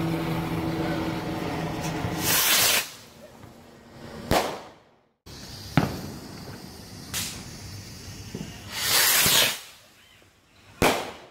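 Fireworks going off at close range: short hissing bursts and several sharp cracks, the loudest hiss about two and a half seconds in and again about nine seconds in. A car engine idles with a steady low hum for the first two or three seconds.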